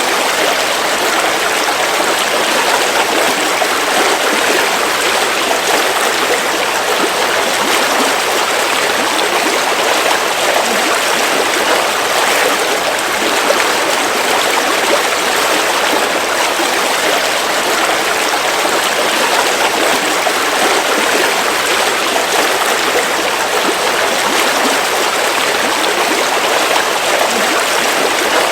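River water flowing over rocks, a steady rushing and trickling.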